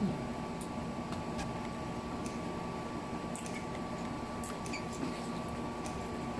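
Quiet eating sounds: scattered small clicks and soft wet smacks of chewing, over a steady room hum.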